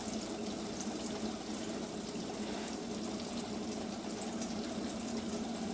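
Battered food frying in hot oil: a steady sizzle.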